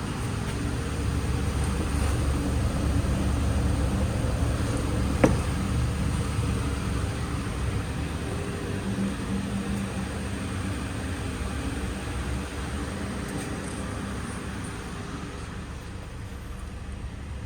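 A 2011 Mitsubishi Outlander Sport's 2.0 L four-cylinder engine idling steadily. A single sharp click comes about five seconds in.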